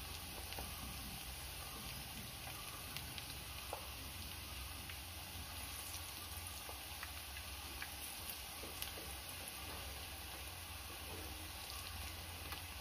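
Onion fritters (ulli vada) frying in hot coconut oil in a pan: a steady sizzling hiss with scattered small pops and crackles, and a wooden spatula moving among them. A low steady hum runs underneath.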